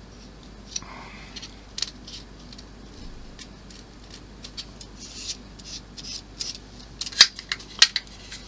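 Small plastic model-kit parts being handled on a workbench: scattered light clicks, taps and brief scrapes, with two sharper clicks near the end.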